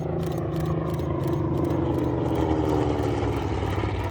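Grumman TBM-3 Avenger's Wright R-2600 twin-row radial engine and propeller running loud as the aircraft flies past. The pitch sinks slowly through the pass.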